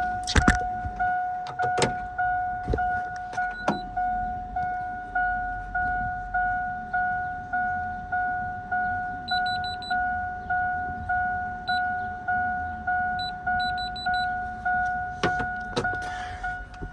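A vehicle's warning chime dinging over and over, about two chimes a second, with the ignition key in and the engine off. A few sharp clicks come in the first few seconds.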